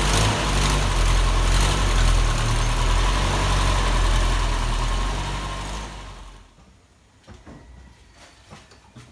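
A 1979 Toyota Corolla SR5's warmed-up 1.6-litre four-cylinder engine idling steadily, its sound dying away about six seconds in; a few faint clicks and knocks follow.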